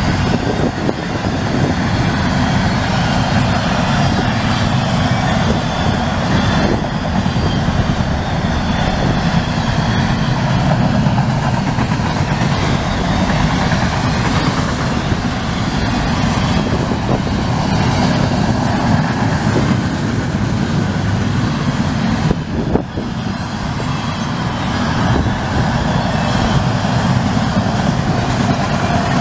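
CSX double-stack intermodal freight train passing at speed: a steady rumble and rattle of steel wheels on the rails and of the loaded well cars going by.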